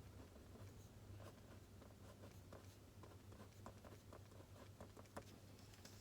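Faint writing at a desk: soft, irregular scratches and small taps of a pen on paper, over a low steady hum.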